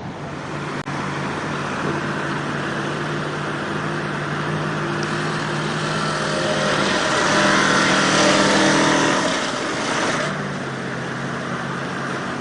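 Truck engine running steadily, then revving up louder for a few seconds past the middle before settling back near the end.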